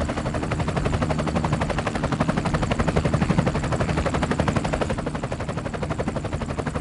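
Helicopter rotor blades chopping in a fast, even beat of roughly seven pulses a second over a low engine hum, growing louder toward the middle and easing off near the end.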